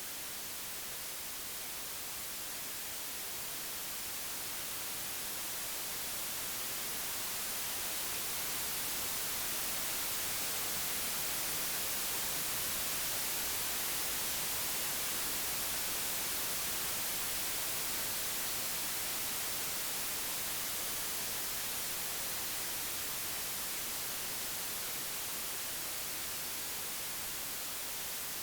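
Computer-generated white noise: a steady, even hiss with no tones or events, swelling slightly in level toward the middle and easing back.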